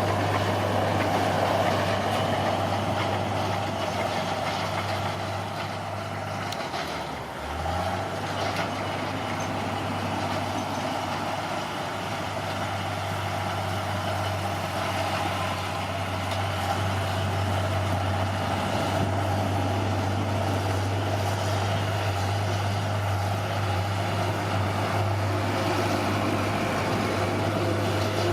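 Bulldozer's diesel engine running steadily, dropping briefly in engine speed about seven seconds in before picking back up.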